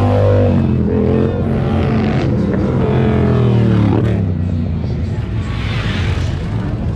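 Motorcycle engines running, with revs rising and falling a few times in the first four seconds over a steady engine note.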